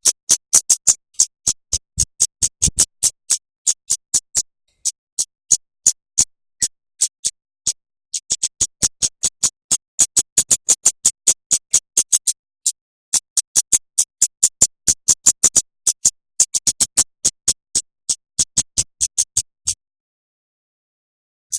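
A songbird giving rapid runs of short, sharp, very high chip notes, about four a second, broken by short pauses and a silence of about two seconds near the end. This is a bird-song training recording of tight repeated 'shots' for songbirds to copy.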